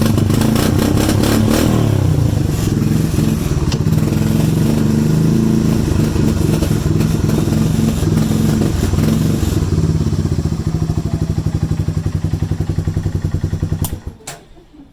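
ATV engine running after a cold start, its beat slowing and becoming more distinct toward the end, then shut off about a second before the end.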